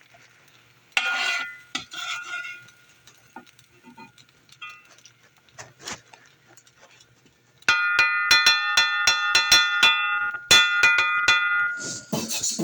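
Soft clinks and scrapes of a utensil against a skillet and plate as food is served. About eight seconds in, a much louder rhythmic electronic sound starts: several held tones together, struck by regular sharp beats, with a short break and an end just before the close.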